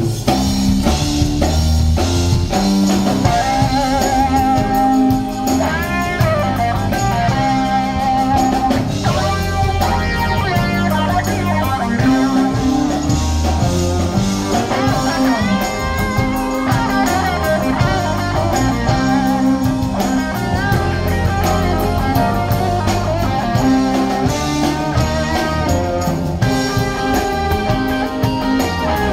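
Live rock band playing an instrumental passage: a lead guitar line with bent notes over bass guitar and drum kit.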